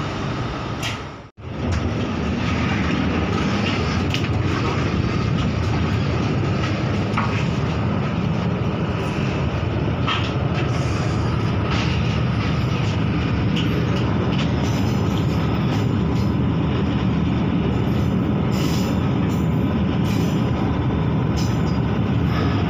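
Inside a KTMB SkyPark Link commuter train on the move: a steady rumble of wheels on rail and the running train, with scattered light clicks. The sound cuts out for a moment about a second in.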